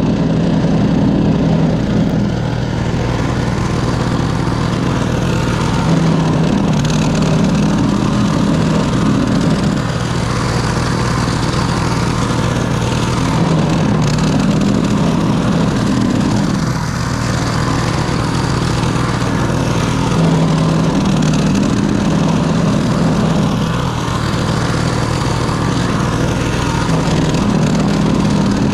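Small snowblower engine running steadily, its note shifting slightly every few seconds.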